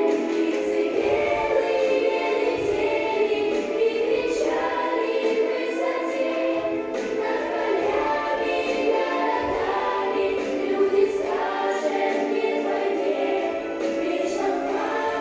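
Choir of high voices singing a song together, a steady legato melody with the phrases flowing on without break.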